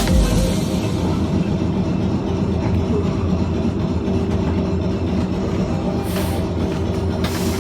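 Heritage tram running, a steady low rumble with a motor hum, and two short bursts of hiss near the end.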